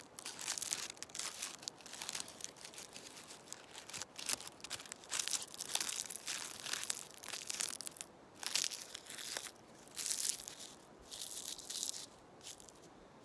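Close crackling rustle of dry leaves and a spruce branch being handled and brushed, dense and continuous at first, then breaking into separate swishes about every second in the latter half.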